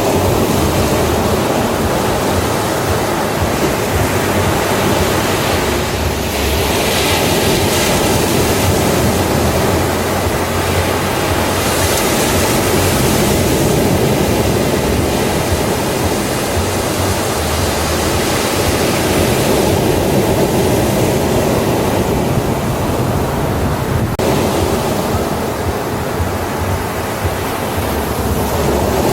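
Ocean waves breaking on a beach, a steady wash of surf with slow swells as waves come in.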